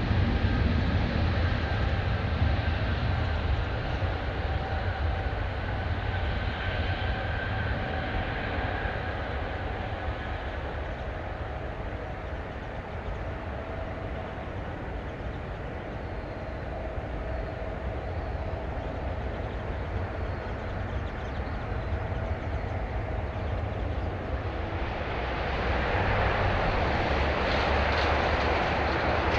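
Jet airliner engines running, a steady rumble with a faint whine. It fades over the first half and grows louder again about four seconds before the end.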